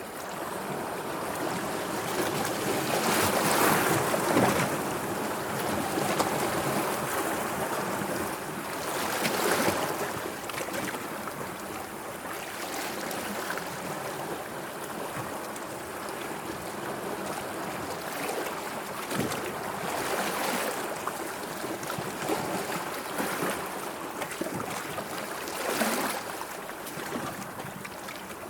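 Sea water washing and lapping in uneven swells that rise and fall every few seconds, with the strongest surges about four seconds in, around ten seconds, and near the end.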